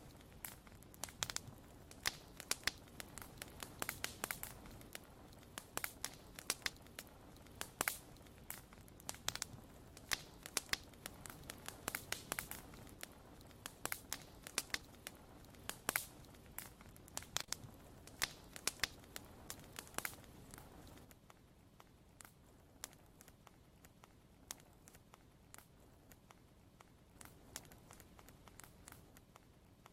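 Wood fire crackling, with frequent sharp pops and snaps over a low hiss. About two-thirds of the way through, the hiss drops and the pops become sparser and fainter.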